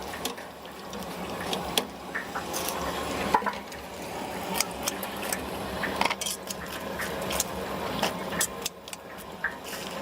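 Metal utensils and cookware clinking and scraping, many sharp clicks, over a steady hiss of deep frying.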